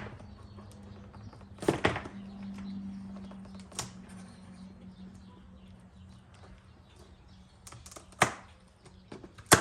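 Sharp clicks and knocks of plastic parts being pried and worked loose from a removed car bumper cover. A double knock comes about two seconds in, others follow near four and eight seconds, and the loudest comes just before the end, over a low steady hum.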